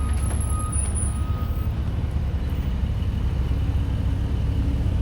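Road traffic rumbling steadily, a deep drone of passing vehicles with no single event standing out.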